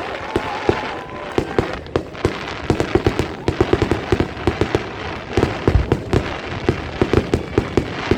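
Fireworks crackling: rapid, irregular sharp pops, several a second.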